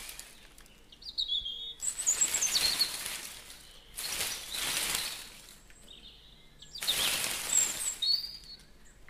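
Small birds chirping in short high calls, with a loud rushing noise that swells and fades three times, each surge lasting about a second and a half.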